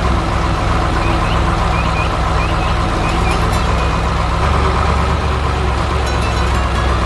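Heavy truck engine running steadily, with a row of short, high rising chirps between about one and three and a half seconds in.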